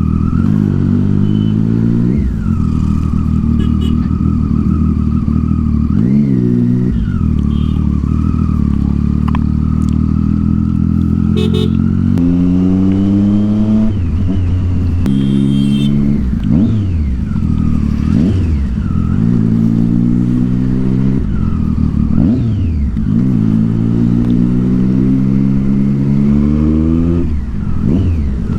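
Triumph Street Triple 675's inline-three engine through a loud Yoshimura exhaust, accelerating through the gears: the note climbs, drops at each shift and climbs again several times.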